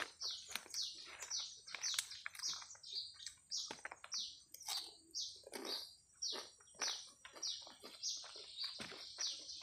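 Close-up wet chewing and lip-smacking of a mouthful of rice and grilled catfish, a quick irregular run of smacks about two to three a second, over a thin steady high tone.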